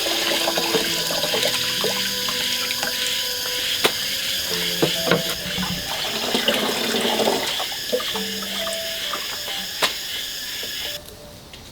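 Running water, with splashing and light knocks, that stops abruptly near the end.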